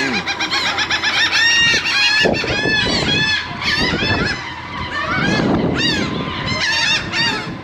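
Several seagulls calling, with short, arched squawks repeated rapidly and overlapping.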